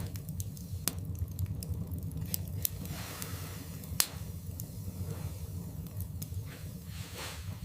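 Wood fire burning in a fireplace: a steady low rumble of flames with scattered crackles and pops from the logs, and one sharper pop about four seconds in.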